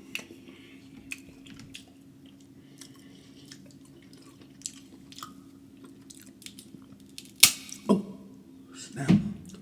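Close-miked eating of snow crab and seafood boil: wet chewing and smacking with many small mouth clicks. A sharp crack comes about seven and a half seconds in, followed by two louder low sounds near the end.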